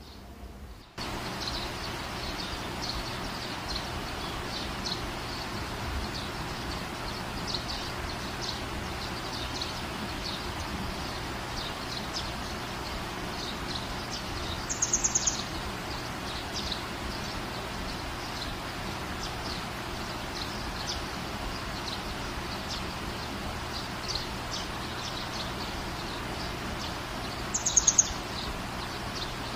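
Birds chirping over a steady background hiss, which starts abruptly about a second in. Two louder, quick chirping trills stand out, about halfway through and near the end.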